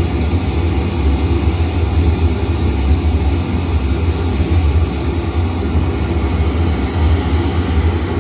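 Pink noise played at high level through a PA system with a 15-inch subwoofer, heard as a steady, even hiss with strong deep bass.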